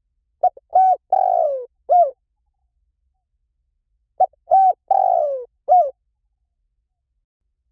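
Spotted dove cooing: two phrases about four seconds apart, each a few short coos around one longer coo that falls in pitch.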